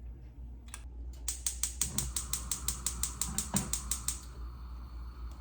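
A small ratcheting mechanism clicking rapidly and evenly, about seven clicks a second for roughly three seconds, followed by a steady hiss that cuts off suddenly.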